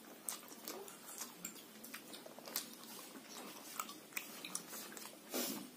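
Close-up chewing and wet mouth clicks of a person eating rice and boiled pork curry, with scattered short clicks throughout. A louder, longer burst of noise comes about five seconds in.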